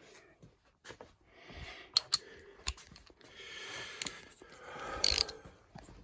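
Metal hand tools being picked up and handled, with a few sharp metal clinks and rustling, scraping sounds between them.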